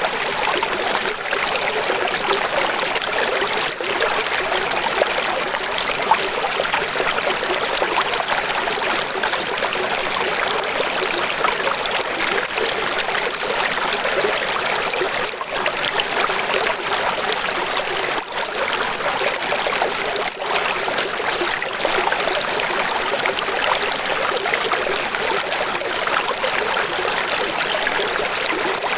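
Running water flowing steadily, an even splashing hiss with little deep rumble.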